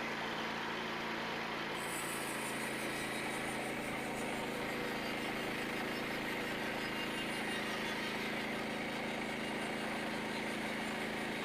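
Small gasoline engine of a portable bandsaw sawmill running at a steady speed, a steady hum with a high hiss joining about two seconds in.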